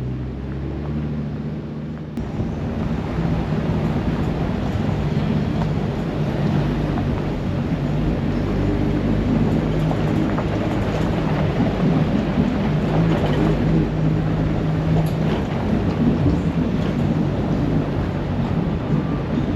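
Vehicle driving: a low engine hum under a dense, steady rumbling noise that gets louder about two seconds in.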